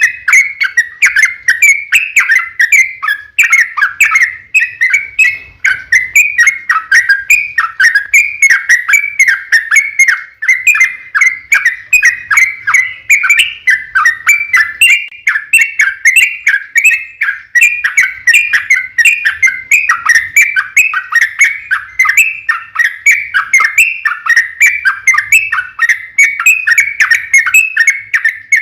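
Yellow-vented bulbul (trucukan) singing a long, unbroken run of rapid, loud chattering and warbling notes, several a second, with no pause.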